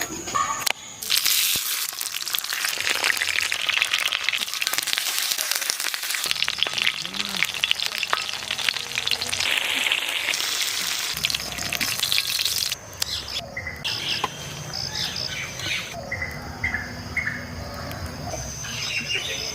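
Curry ingredients sizzling and crackling as they fry in hot oil in a pan, loud for about twelve seconds. The sizzling then drops off abruptly to a quieter stretch with short high chirps.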